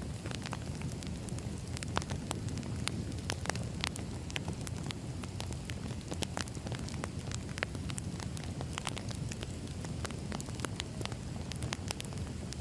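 Firewood burning: a steady low rumble of flames with frequent, irregular sharp crackles and pops from the wood.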